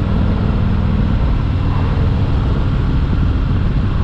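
Harley-Davidson Freewheeler trike's Milwaukee-8 107 V-twin engine running steadily under way, with road noise.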